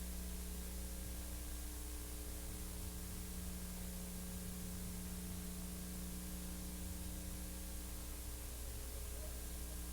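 Steady electrical hum with a constant hiss, and no other sound: the noise floor of a silent film's soundtrack.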